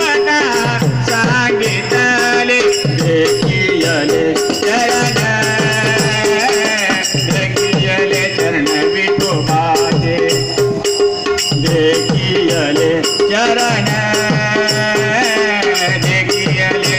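Marathi devotional bhajan: voices singing over a fast, steady beat of small hand cymbals, with a held drone tone underneath.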